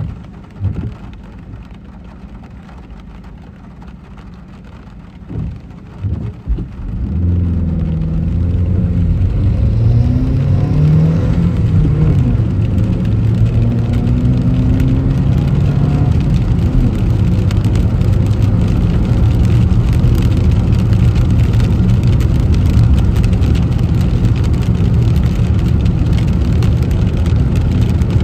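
Car pulling away about seven seconds in, its engine note climbing and stepping through the gears, then running steadily at speed with tyre and rain noise. A few low thumps come before it moves off.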